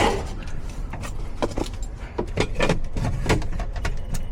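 Irregular clicks, knocks and rattles of metal parts being handled, as an air conditioner's outdoor electrical disconnect box is opened and switched off to cut power to the unit.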